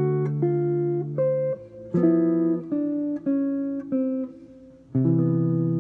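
Guitar playing a jazz lick over a ii–V–I in C (D minor, G7, C major 7) with the chords added. A chord rings for about a second and a half, a few shorter plucked notes and chords follow, and another chord is struck about five seconds in.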